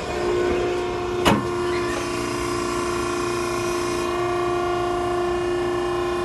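Steady machine hum with a fixed whining tone, as from a cardboard baler's electric hydraulic pump unit running, with a single sharp click about a second in.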